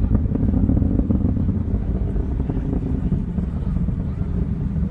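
Distant rumble of an Atlas V rocket in flight, its RD-180 main engine and five solid rocket boosters burning. A steady, deep, rough rumble that holds at the same level throughout.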